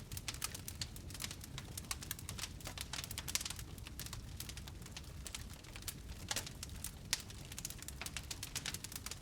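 Wood fire crackling in a fireplace: a dense, irregular run of small pops and snaps, a few of them louder, over a low steady rumble of the burning.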